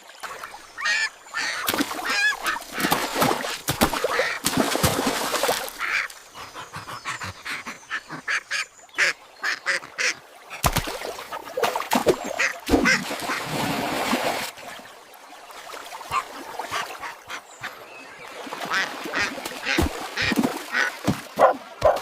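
Cartoon duck quacking again and again, mixed with a busy run of knocks, clicks and rustling sound effects.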